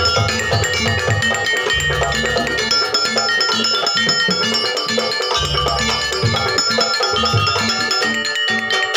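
Live campursari music: ringing metal-keyed notes over a steady, regular drum beat.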